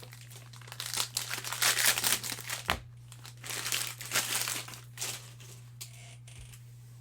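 Card-pack wrapper crinkling as it is torn open and handled, in irregular bursts that die down about five seconds in.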